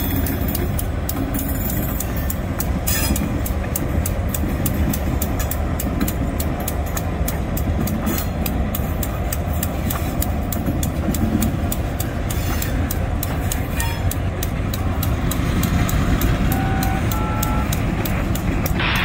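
Diesel locomotives running steadily as a slow freight train with covered hoppers rolls past, a continuous low engine and rolling rumble.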